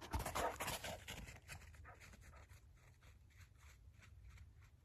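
Faint rustling, then a dog panting softly and rhythmically, about three breaths a second.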